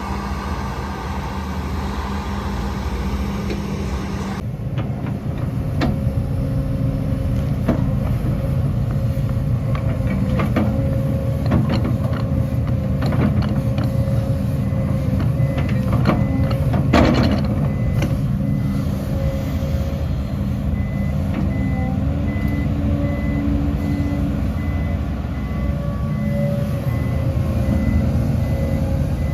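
Heavy diesel engines of an excavator and dump trucks running steadily, with scattered knocks and a louder clank about halfway through. A dump truck's reversing alarm beeps evenly through the second half.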